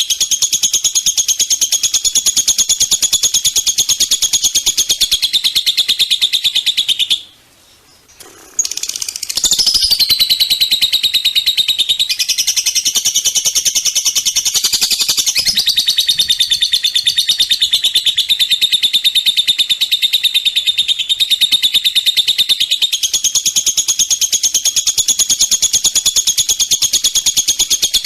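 Cage songbird training recording: a songbird sings a rapid, continuous trilled song. It breaks off for about two seconds around seven seconds in, then resumes with sweeping rises and falls in pitch before settling back into the fast steady trill.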